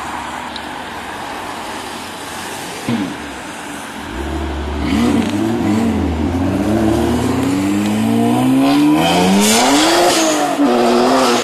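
Performance cars pulling away onto the road one after another. For the first few seconds there is a car driving off; then, about four seconds in, engines rev hard, their pitch climbing and dropping back repeatedly through the gears, loudest near the end.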